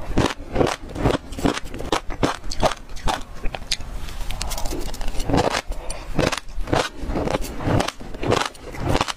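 Mouthful of passion fruit seeds crunched and chewed close to the microphone: an irregular run of sharp crackling crunches, two or three a second.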